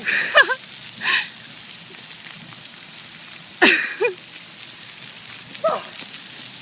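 Steady hiss of rain and fountain water, with short high shrieks and yelps from people's voices at the start, about a second in, near four seconds and near six seconds.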